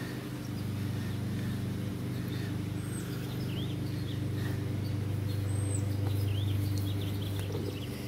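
Small birds chirping in short calls a number of times over a steady low machine hum.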